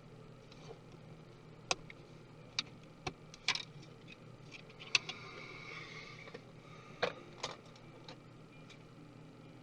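Small tools and parts clicking and tapping as a MacBook Pro laptop is taken apart, with about seven separate sharp clicks and a short scraping sound about five seconds in.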